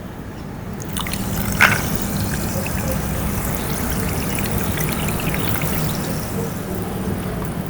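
Liquid being poured in a steady trickle, starting about a second in with a sharp click near the start, and easing off toward the end.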